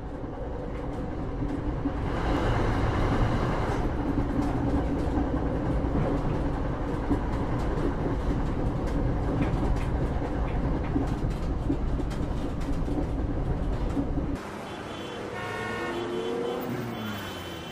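Steady rumble and rattle of a train carriage running. It cuts off suddenly about fourteen seconds in, and car horns are heard honking in traffic.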